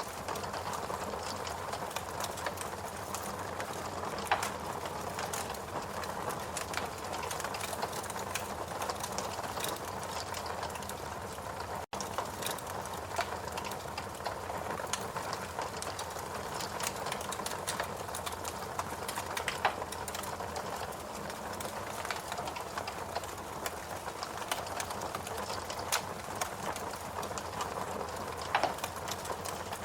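Fireplace crackling: scattered pops and snaps over a steady hiss. The sound cuts out for an instant about twelve seconds in.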